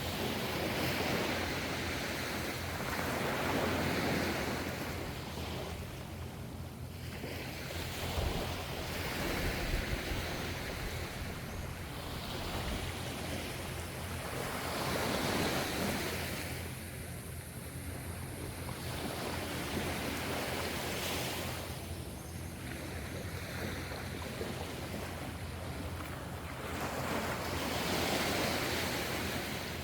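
Gentle ocean waves breaking and washing up the shore, swelling about every five to six seconds, over a steady low rumble.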